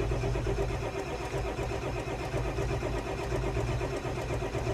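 Starter motor cranking a 2002 Ford F-250's 7.3-litre V8 diesel with a steady, even rhythm and a constant whine, without the engine firing. This is a cold start with glow plugs that are not working (a faulty glow plug relay), so the engine will not catch.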